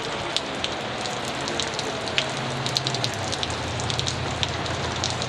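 Heavy thunderstorm rain falling steadily, with many close drops ticking sharply on nearby surfaces. A low steady hum joins about two seconds in.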